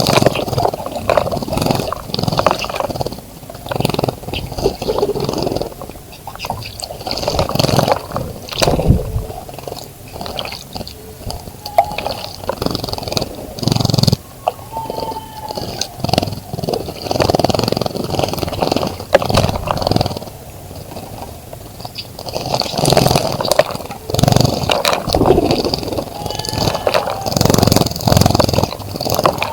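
Birds splashing and fluttering in a shallow bird bath close to the microphone, in irregular bursts of a few seconds each, with a few short chirps.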